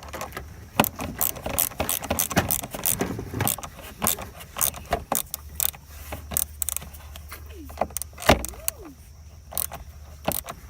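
Hand tools clicking and clinking on metal parts while a component is fastened back on in a truck's engine bay: irregular clicks, thickest in the first few seconds, with one louder knock about eight seconds in.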